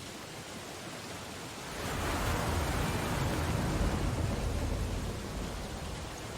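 Steady hiss of heavy rain on window glass, with an ocean wave breaking about two seconds in, swelling to a deep surge and washing away over the next three seconds.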